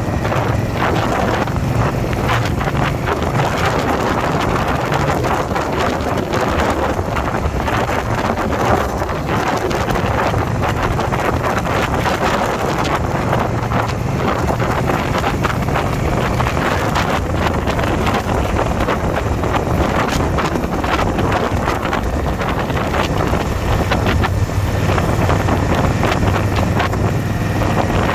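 Motorcycle riding at road speed: heavy wind rushing over the microphone over the steady low drone of the engine.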